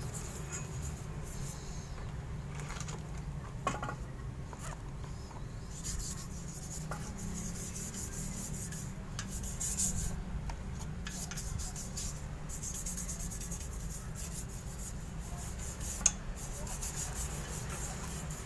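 Toothbrush scrubbing a detergent cleaning liquid onto the yellowed, stained metal of a motorcycle exhaust, in many short rubbing strokes, with a sharp tap near the end.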